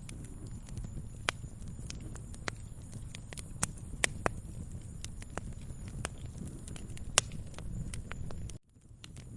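Wood fire crackling in a fireplace: a steady low rumble with scattered sharp pops, the loudest about seven seconds in. The sound cuts out for a moment near the end, then resumes.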